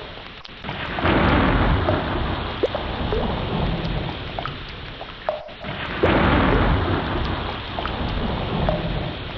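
Ocean waves surging in and washing back, with two loud swells about five seconds apart over a deep rumble, and short gliding squeaks and gurgles scattered through the water noise.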